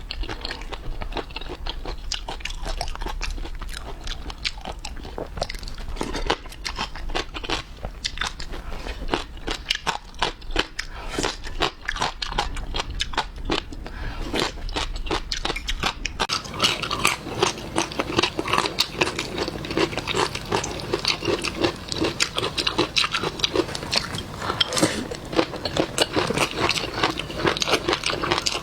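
Close-miked eating of seafood: biting, crunching and wet chewing, full of small clicks and crackles. It gets denser and louder about halfway through.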